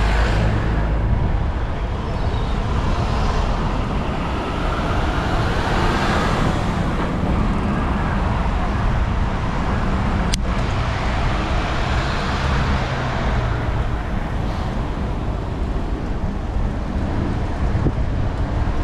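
Steady road traffic noise with vehicles swelling past now and then, and a single sharp click about ten seconds in.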